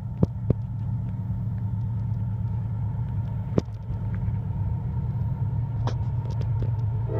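Steady low rumble of an approaching CSX diesel freight locomotive, with a few sharp clicks scattered through it.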